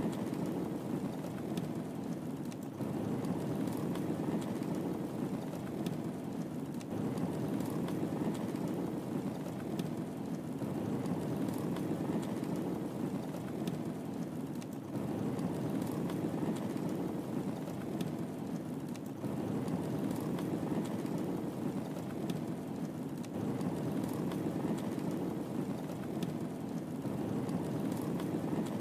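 Wood fire burning in a fireplace: a steady low rush of flames with scattered faint crackles and pops.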